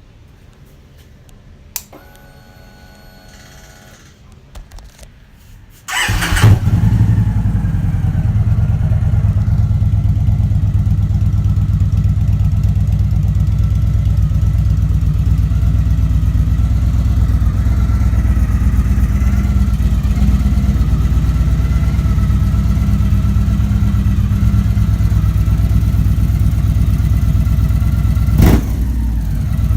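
Motorcycle fitted with Drew Miller Dragon aftermarket mufflers starting up about six seconds in, then idling steadily and loudly through the new exhaust.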